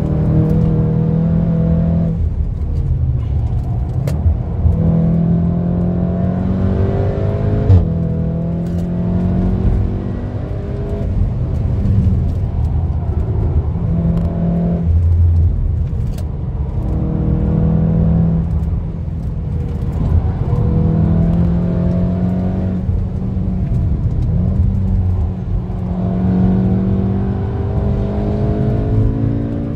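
Turbocharged 2.0-litre four-cylinder of a tuned VW Golf R accelerating hard in repeated pulls, its pitch rising for a few seconds at a time and breaking off at quick DSG gear changes and lifts. A few sharp clicks are heard along the way.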